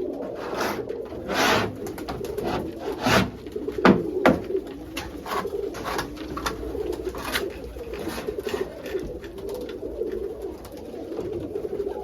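Domestic pigeons cooing steadily in a loft, with a string of sharp knocks and scrapes through it, the loudest a few in the first half.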